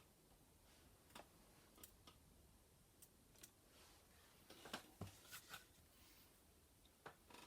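Near silence with faint scattered clicks and small taps, and one soft low thump about five seconds in.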